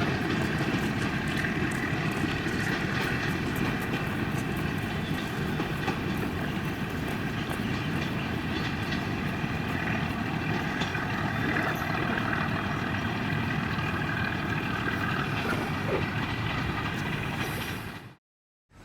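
Metre gauge train running, a steady rumble of wheels on track with faint rail clicks and some held higher tones over it. The sound fades out quickly near the end.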